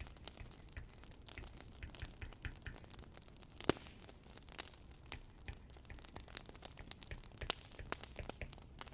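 Firewood crackling in a fireplace: irregular sharp snaps and pops over a low steady rumble, with one louder pop about three and a half seconds in.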